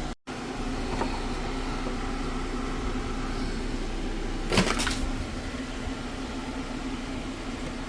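A steady machine hum with one steady tone, and a single short sharp knock or clatter about halfway through.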